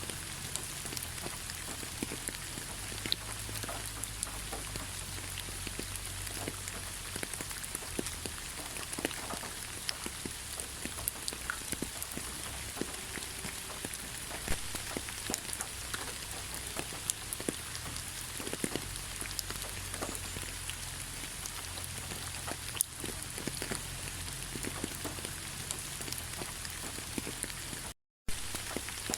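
Rain falling in a forest: an even hiss with many separate drops tapping close by. The sound cuts out completely for a split second near the end.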